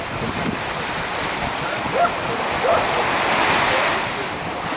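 Strong, gusty wind blowing across the microphone with surf washing on the beach, the noise swelling for a second or so about three seconds in.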